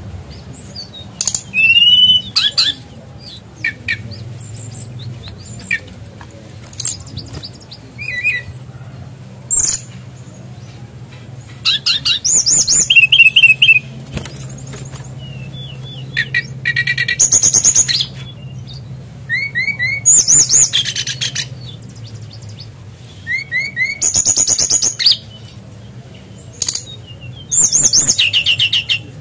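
Brown-chested jungle flycatcher (SRDC) singing in loud bursts of rapid, high warbled phrases every few seconds, its song including calls imitating a kingfisher (tengkek udang). A steady low hum runs beneath.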